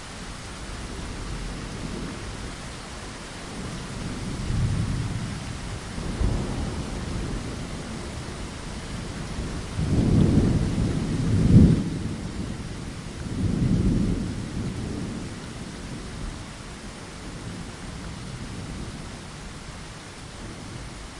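Steady rain hiss on a window, with thunder rumbling in several low, rolling swells through the middle, the loudest about halfway through.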